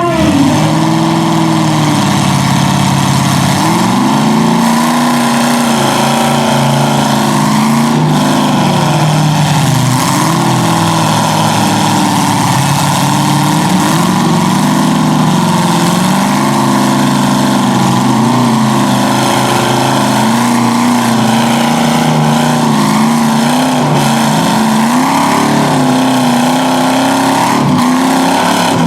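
Pickup truck engines held at high revs under heavy load, their pitch wavering up and down continuously, as 2WD trucks pull against each other in a tug of war.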